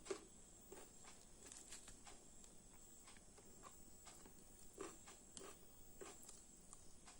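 A person eating quietly: soft, scattered mouth clicks and smacks of chewing, the loudest right at the start and about five seconds in, over a faint steady high-pitched whine.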